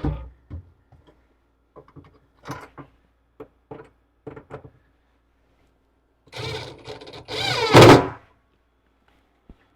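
Workshop handling noises: scattered light knocks and clicks, then a loud, harsh noise lasting about two seconds near the end.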